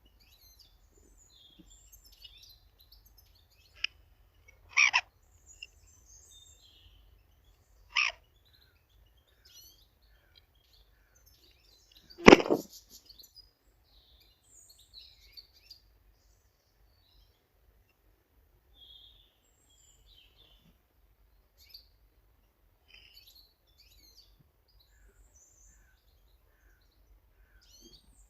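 Small garden birds chirping and calling in short scattered notes, with three sharp knocks about five, eight and twelve seconds in, the last the loudest.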